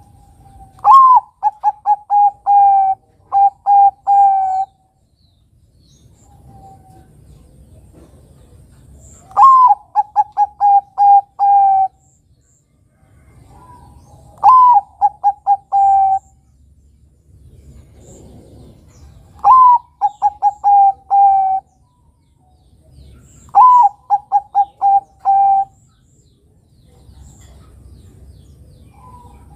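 Zebra dove (Bangkok-type perkutut) cooing: five song phrases a few seconds apart, each a quick rising-and-falling opening note followed by a run of about five to seven short, even coos.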